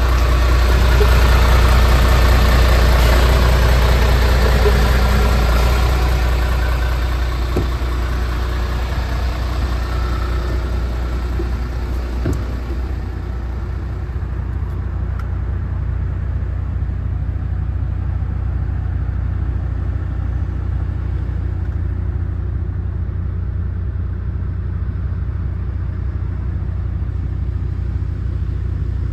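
MAN TGX 26.470 tractor unit's diesel engine running, louder with more hiss and rattle for the first several seconds, then settling to a steady low idle from about a dozen seconds in.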